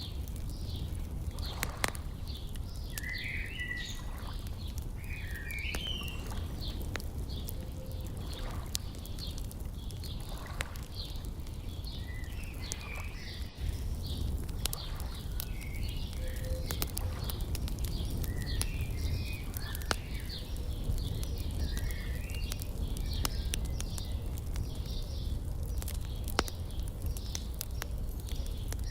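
Birds chirping in short repeated phrases over the crackle and pops of a wood fire, with a steady low rumble underneath.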